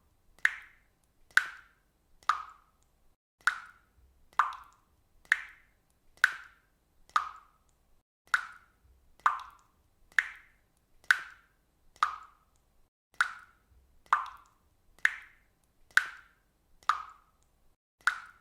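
Water dripping steadily, a single drop falling a little faster than once a second, each a short pitched plop.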